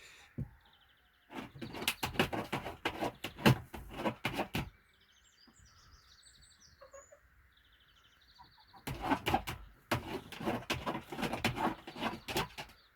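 Two spells of rustling and scratching, each a few seconds long: a bird shuffling about in the nesting material of its nest box.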